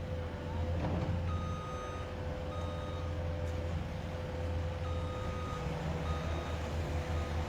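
A construction vehicle's reversing alarm beeping in short, evenly spaced beeps, starting about a second in, over the steady low running of a heavy diesel engine.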